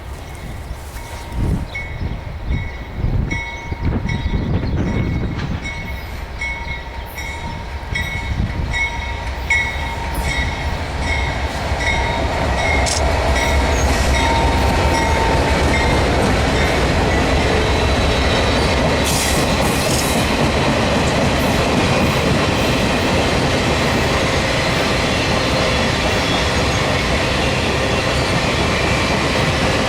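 A train's cars rolling past with a rhythmic clickety-clack of wheels over rail joints. About twelve seconds in it becomes a louder, steady rolling rumble.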